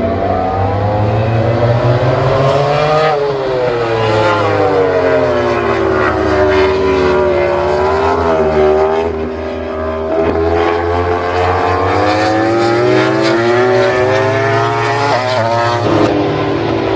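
Racing motorcycle engines at high revs, the engine note rising and falling several times with a sharp drop about sixteen seconds in.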